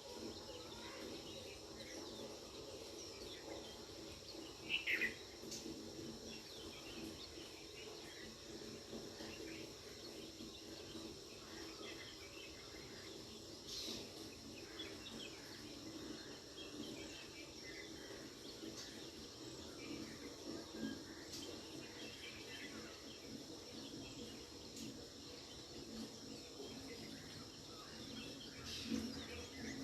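Outdoor nature ambience: a steady faint hum of insects, with short bird chirps now and then. The clearest chirps come about five seconds in and again near the end.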